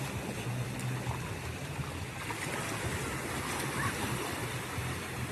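Beach ambience: the sea washing in as a steady rush, with a steady low hum underneath.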